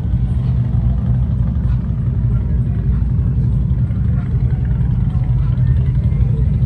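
Motorcycle on the move: a steady low engine rumble mixed with wind noise on the microphone.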